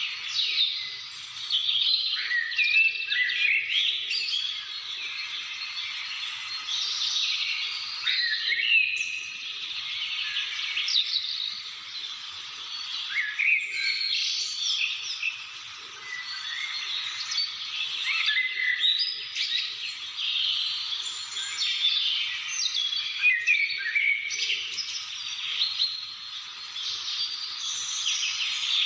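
A chorus of many birds chirping and singing at once: short overlapping chirps, trills and quick pitch glides with no pauses.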